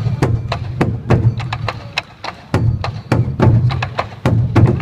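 Sansa odori drumming: a group of taiko drums beaten in a fast rhythm, deep booms under many sharp clicking stick strokes, with a brief lull in the booms about two seconds in.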